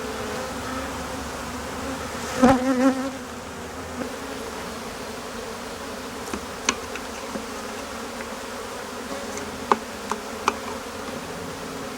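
A disturbed honeybee colony buzzing steadily around its opened comb. About two and a half seconds in, one buzz swells louder with a wavering pitch, and a few small clicks follow later.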